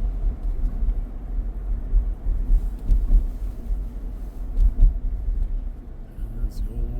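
Low, steady rumble of a car driving, heard from inside the cabin: road and tyre noise with engine hum.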